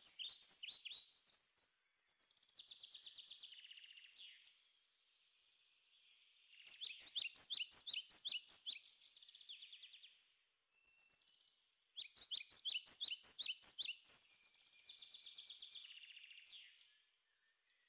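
A small songbird singing: phrases of quick, sharp chirps alternating with fast trills, a new phrase every couple of seconds with short pauses between.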